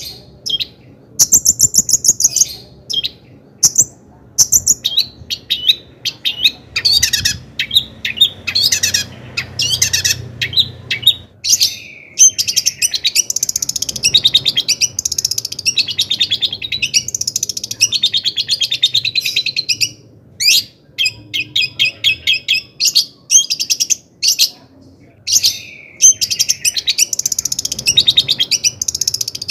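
Long-tailed shrike singing a fast, varied chattering song of rapidly repeated notes and trills, broken by a few short pauses.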